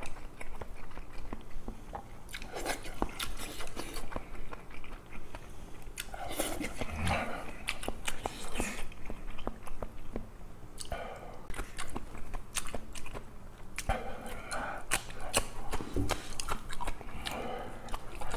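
A person chewing a mouthful of food close to the microphone: irregular wet mouth sounds and short clicky chews, with a few sharper crunches.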